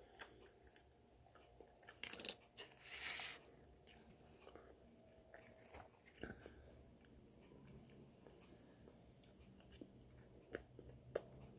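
Faint eating sounds: chewing, with small clicks of a fork and a plastic sauce cup and a couple of brief rustles about two to three seconds in.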